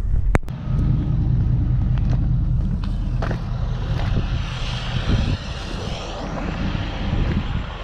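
Truck engine running low and steady while backing a dump trailer in, with a sharp click about half a second in and a few lighter knocks after it. A hiss rises over the engine about four seconds in and fades about two seconds later.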